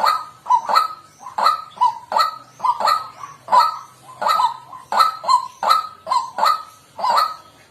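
White-breasted waterhen calling: short 'kwak' notes repeated in an even run, about two a second.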